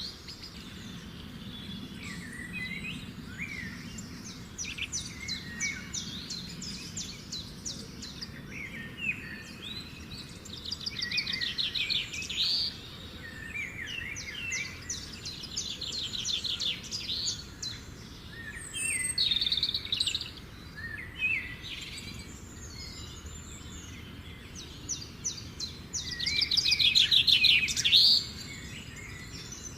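Songbirds singing: rapid trilled phrases repeated every few seconds over a steady low background hum, the loudest trill near the end.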